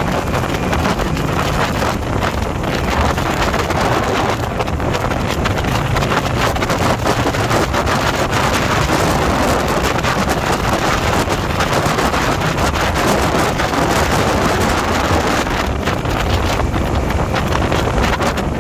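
Steady wind rushing over the microphone of a motorcycle moving at road speed, with the bike's running blended into the rush.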